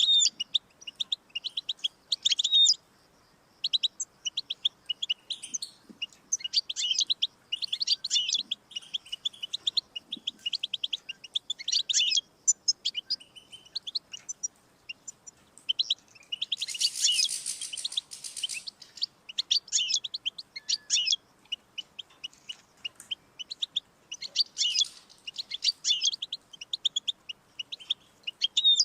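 European goldfinch singing: fast twittering phrases of short, bright notes with brief pauses between them. About sixteen seconds in there is a harsh, buzzy stretch of about two seconds.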